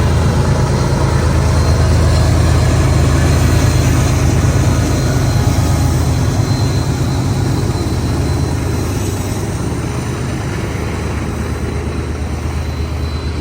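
Diesel freight locomotive engine running with a steady low hum under a hiss of train noise, slowly growing quieter.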